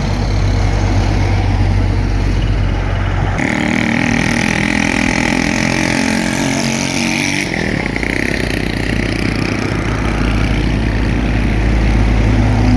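Heavy road traffic: engines of passing trucks, buses and motorcycles running close by. A deep engine drone changes abruptly about three seconds in to a higher engine note with a steady high whine, then about four seconds later back to a deep rumble.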